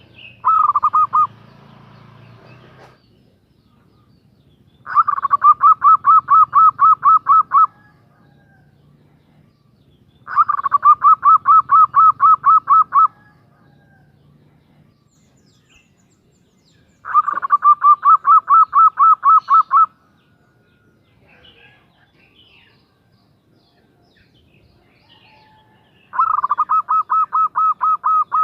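Female zebra dove (perkutut) calling: bursts of rapid, evenly spaced short notes, about five a second, each burst lasting about three seconds and repeated four times with pauses of a few seconds between, the last burst still going at the end. The call is used to attract a male.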